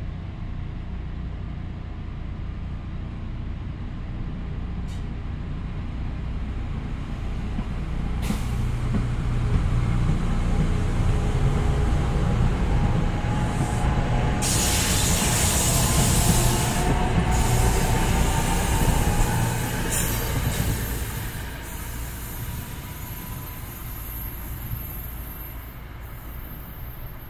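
An NJ Transit commuter train rolling through the station, its rumble building for about ten seconds, staying loud, then easing off. A burst of hissing air comes about halfway through, and a faint whine falls in pitch.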